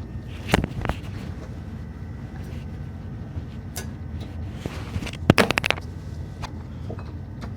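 Items in a refrigerator being handled: a couple of knocks about half a second in, then a quick rattle of several clicks about five seconds in, over a steady low hum.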